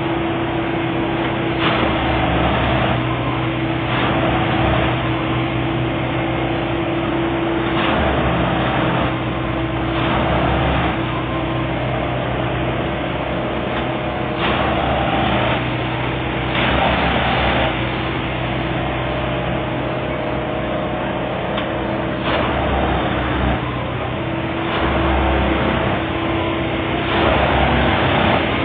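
Plasser & Theurer 09-32 CSM Duomatic track tamping machine working: its diesel engine runs steadily, and every few seconds a harsher burst of about a second rises over it with a low rumble, as the tamping units work the ballast under the sleepers.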